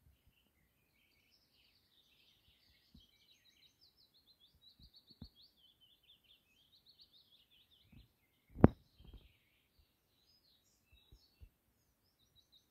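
Songbirds singing continuously in short, quick chirps and trills. A single sharp knock comes about eight and a half seconds in, with a few faint low thumps around it.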